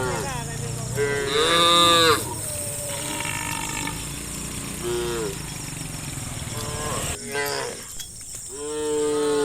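Cattle mooing several times, with separate calls that rise and then fall in pitch. The loudest comes about a second in and a long one near the end, over a low steady rumble that stops about seven seconds in.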